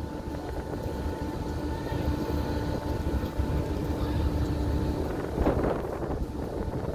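Wind buffeting the microphone over a steady boat engine hum with a held tone, the lower part of which drops out about five seconds in.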